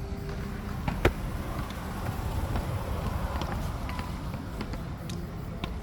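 A ball is struck once, sharply, about a second in, with fainter hits later, over a steady hum of outdoor background noise.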